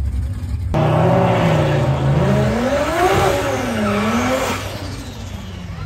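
Drag car's engine revving, starting suddenly about a second in, its pitch climbing and dropping several times before easing off near the end.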